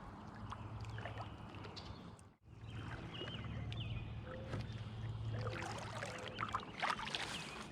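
Kayak paddling on calm water: paddle blades dipping and water trickling off them, with a few faint light splashes. The sound cuts out completely for a moment a little over two seconds in.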